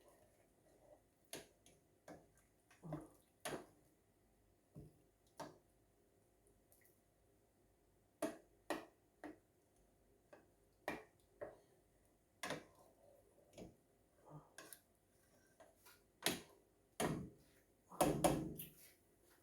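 Irregular sharp clicks and light taps from a cooking pot of thick simmering dessert, roughly one every second or so, with a louder, duller knock near the end.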